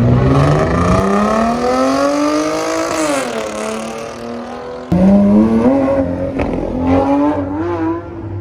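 Car engines revving hard as the cars accelerate. One engine's pitch climbs for about three seconds and then drops away; about five seconds in a louder engine cuts in suddenly, its pitch climbing unevenly.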